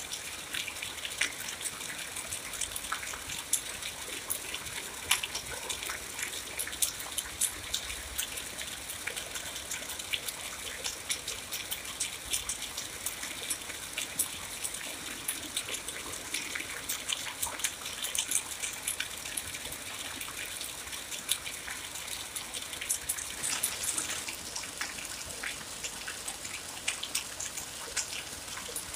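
Steady rain: an even hiss of falling water with many sharp, close drop hits scattered through it.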